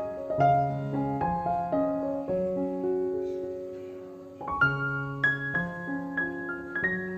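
Background music: a gentle solo piano melody, with a short pause and a new phrase starting about four and a half seconds in.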